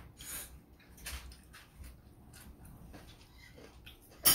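Close-up eating sounds: mouth clicks and crunches from chewing crispy fried pork, with one loud sharp knock right at the end.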